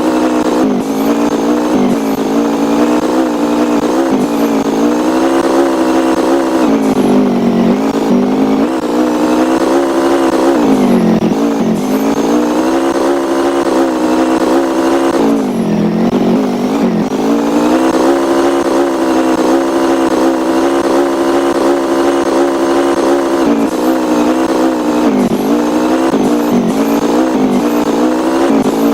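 A vehicle engine running steadily, its pitch dipping and coming back up a few times as it eases off and picks up again.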